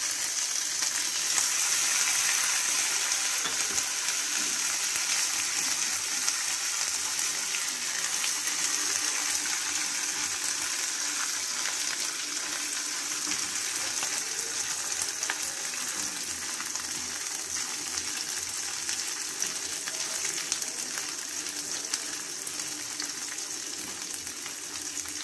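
Crushed ginger and garlic frying in hot oil with whole cumin and coriander seeds in a non-stick kadai: a steady sizzle that slowly dies down. A spatula stirs the tadka, with small scrapes and taps against the pan.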